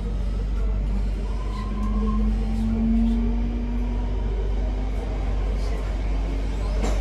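Inside a Class 323 electric multiple unit on the move: a steady low rumble of the train running on the track, with a traction-motor whine that rises slightly in pitch between about one and four seconds in.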